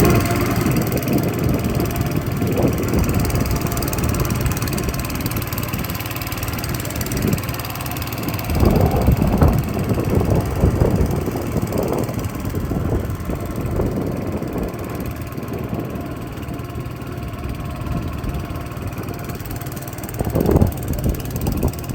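Honda engine of a motor boat running steadily, with brief louder surges about nine seconds in and again near the end.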